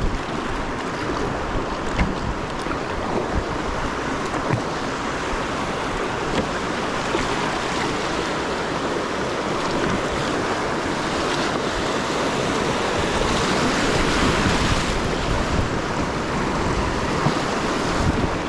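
Rushing river water around a small fishing kayak moving quickly through riffles, with wind buffeting the microphone and a few light knocks.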